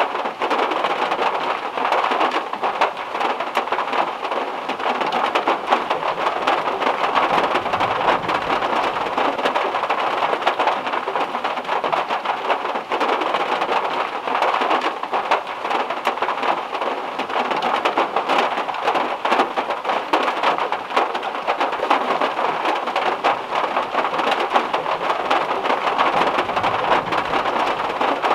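Heavy rain beating steadily on a car's metal roof, a dense patter of countless drops, with faint low rumbles about a third of the way in and again near the end.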